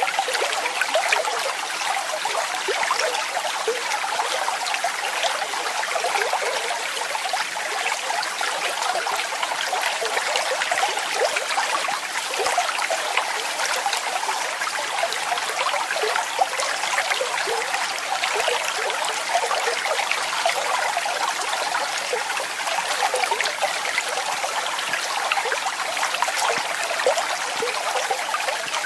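Running water splashing and trickling steadily: a continuous bright babble of many small splashes, with no deep rumble.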